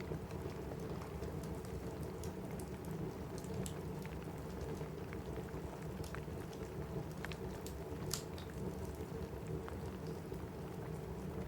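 Steady rain on a cabin roof, with scattered sharp crackles and pops from a wood fire in a fireplace; one pop about eight seconds in is louder than the rest.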